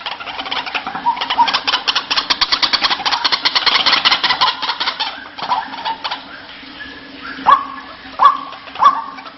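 White-breasted waterhen (ruak-ruak) calling as a bird lure. A fast, loud chattering run of notes lasts about five seconds, then from about seven and a half seconds separate rising 'kru-ak' calls repeat about every 0.7 seconds, over a faint steady hum.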